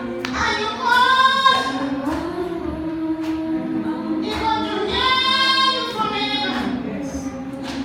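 Voices singing a church hymn in long held notes, with a few sharp taps or hits scattered through it.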